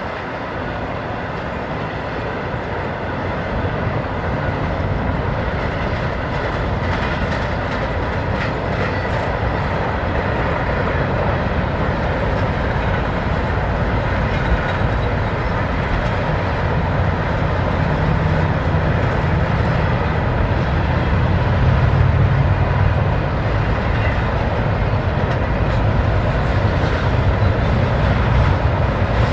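Double-stack intermodal freight train cars rolling past on the rails: a continuous rumble and rattle that grows steadily louder, with a low drone strengthening in the second half.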